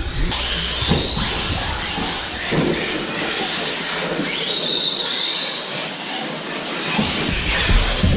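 Electric RC cars' brushless motors whining, rising and falling in pitch as they accelerate and brake around the track, over a steady hiss.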